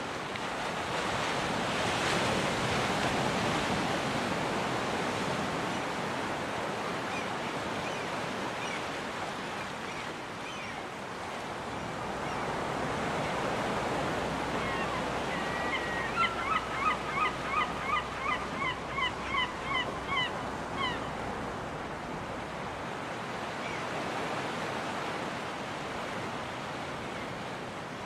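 Surf washing in, rising and easing in slow swells. Midway through, a seagull calls in a quick run of about a dozen short, repeated cries, about two a second.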